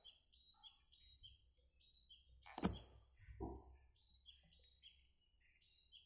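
Faint, quick chirps of a small bird in the background, repeating about three times a second. A sharp tap comes about two and a half seconds in, followed by a softer thump.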